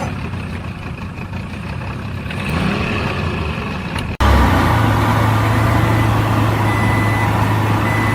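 Vehicle engine sound that cuts abruptly about four seconds in to a louder, steady engine hum, with a few faint short high beeps in the second half.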